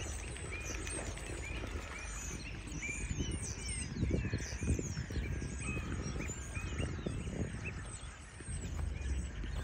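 Many small birds chirping in quick, short calls over a steady low rumble.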